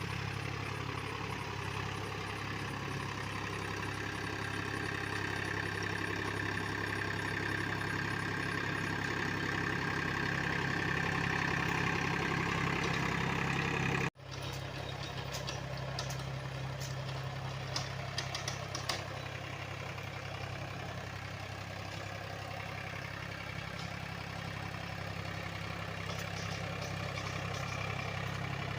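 Powertrac Euro 45 Plus 4WD tractor's diesel engine running steadily. The sound cuts out for an instant about halfway through, followed a few seconds later by a few sharp clicks.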